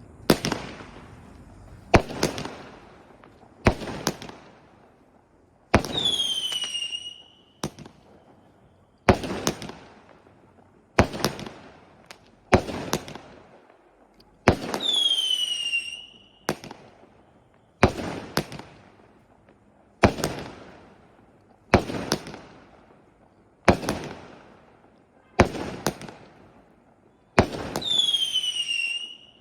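A 0.8-inch, 36-shot firework cake (module torta) firing its shots one at a time, about one every two seconds, each a sharp bang with a fading crackle. Three of the shots are followed by a whistle that falls in pitch over about a second.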